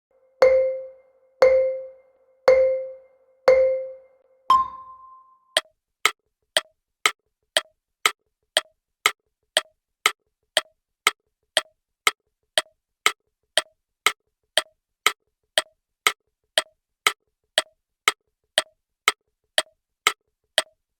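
Electronic countdown beeps, four short lower beeps about a second apart and then one higher, longer beep as a start signal, followed by a steady clock-like timer ticking about twice a second.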